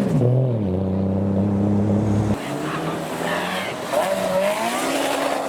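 A modified car's engine revving. The revs drop, hold at one steady pitch for about two seconds and then cut off, and the engine revs up again near the end.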